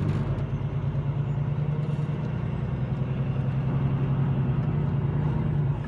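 Steady low drone of a semi-truck's diesel engine and road noise, heard from inside the moving cab.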